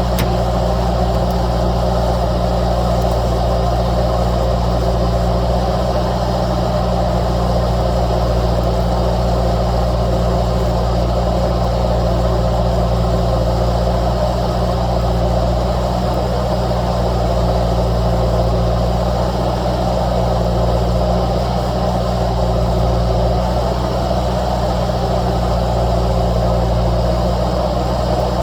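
Skid steer loader's engine running steadily at a constant speed.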